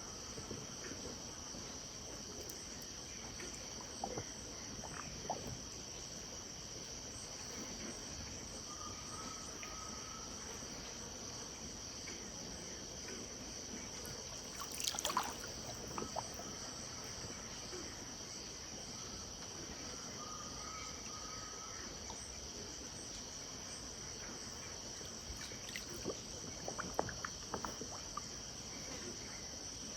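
Steady, high-pitched insect chorus at a riverside at dusk, with a short call twice and a few scattered clicks, the loudest about halfway through and a small cluster near the end.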